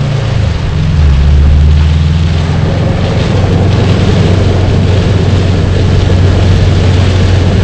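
A car driving through heavy storm rain, heard from inside the cabin: a low steady engine and road drone under a constant hiss of rain and water. The drone shifts in pitch about a second in, then holds steady.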